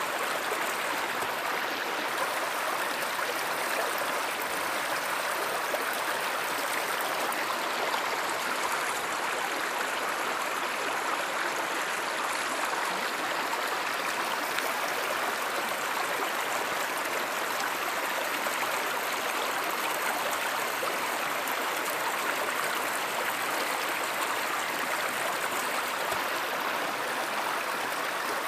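Steady flow of a stream or river running over rocks, an even rushing and babbling water sound with no breaks.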